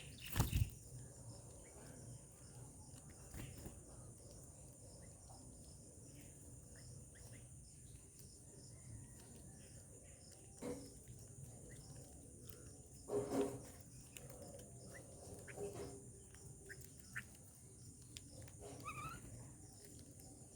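Steady high-pitched insect drone, with a few short bird chirps scattered through and a sharp knock about half a second in.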